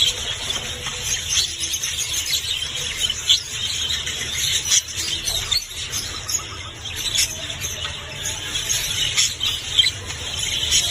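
Many small songbirds chirping and twittering together in a dense, continuous high-pitched chorus of quick overlapping trills.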